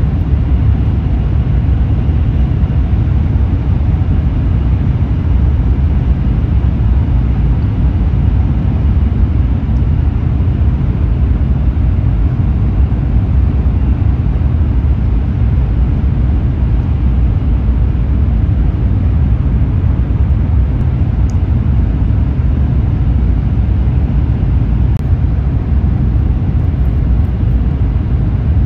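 Shinkansen bullet train running, heard inside the passenger car as a steady, loud low rumble of cabin noise.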